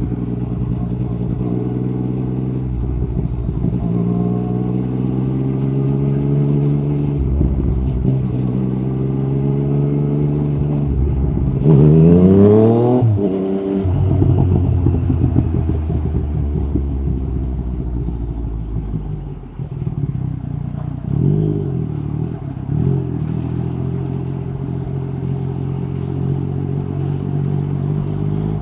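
Yamaha MT-09 SP's inline three-cylinder engine through an Akrapovic carbon Racing-Line exhaust with the dB killer removed, heard from the rider's seat while riding. The engine note rises and falls at a steady pace. About twelve seconds in, a hard pull sends the revs climbing steeply until they cut off at a shift. Near the end come two short throttle blips.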